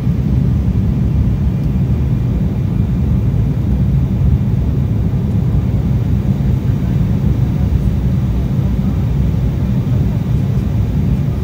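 Steady low rumble of cabin noise inside an Embraer E190 airliner, the sound of its two General Electric CF34-10E turbofan engines and the airflow carried through the cabin.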